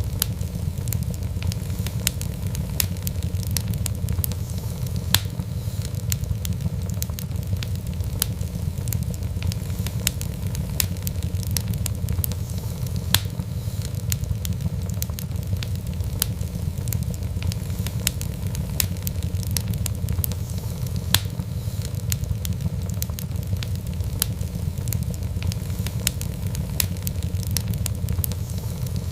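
Wood fire crackling, with many small sharp crackles and a few louder pops about every eight seconds over a steady low rumble of the flames.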